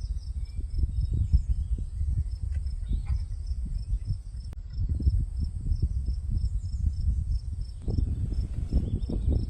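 An insect, likely a cricket, chirping steadily at about three chirps a second, over a louder, uneven low rumble.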